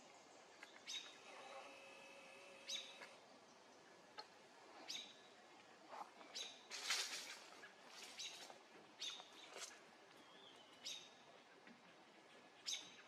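Faint bird chirps: short, high calls repeating every second or so, with a few longer held notes near the start.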